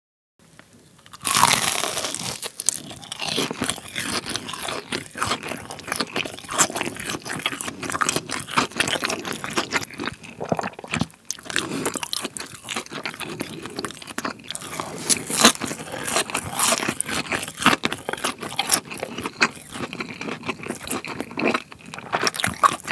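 Close-miked biting and chewing of a breaded, deep-fried cheese pork cutlet, its crisp crust crunching and crackling. It starts about a second in with a loud first bite.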